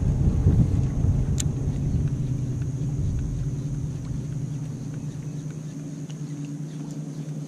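A motor running with a steady low hum and rumble; the deepest part of the rumble eases off after about five seconds. A single sharp click sounds about a second and a half in.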